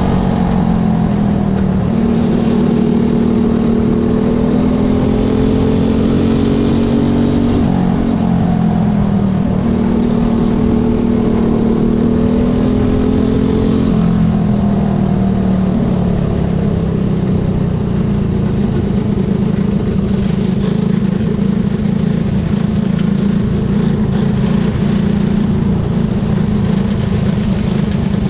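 Junior-class racing motorcycle engines running at high revs. The pitch steps down and back up around 8 and 14 seconds in, then holds steadier from about 16 seconds in.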